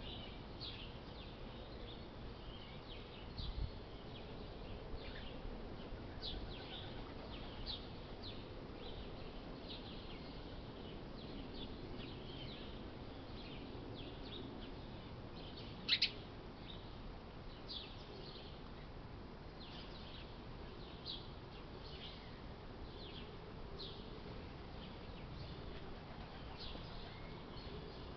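Small songbirds chirping, many short high chirps scattered all through, one louder chirp falling in pitch about halfway, over a low steady rumble.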